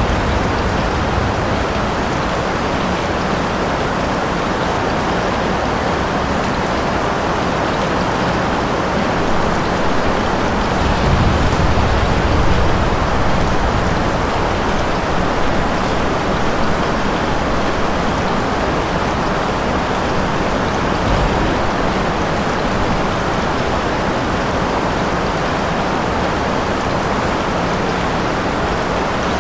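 Steady heavy rain falling and splashing on surfaces, with a low rumble that swells about eleven seconds in.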